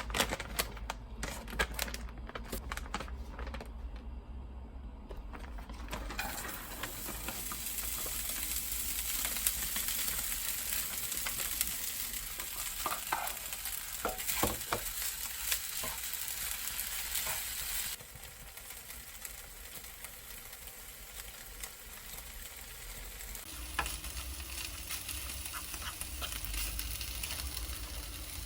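Food sizzling in a frying pan, a steady hiss that eases off about two-thirds of the way through. A few sharp clicks and taps come before the sizzling starts.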